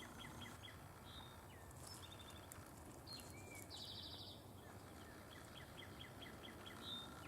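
Several songbirds singing in the woods: short fast trills and runs of quick repeated chirps, faint over a low steady background hiss.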